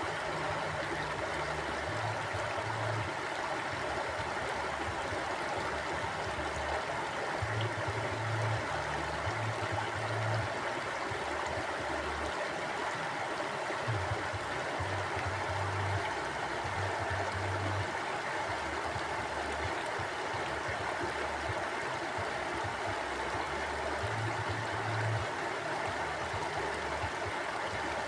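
River water flowing steadily, an even rushing and babbling of the current.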